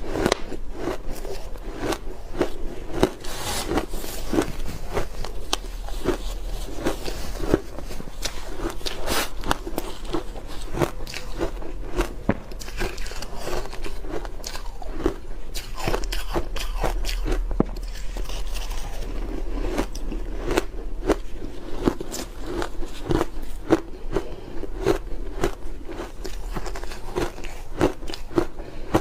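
Ice being bitten and chewed close to the microphone, a steady run of irregular crunches several times a second.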